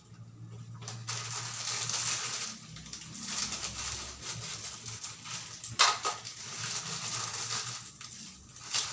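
Someone chewing crunchy food close to the microphone, a crackling crunch that swells and fades, with one sharp click about six seconds in.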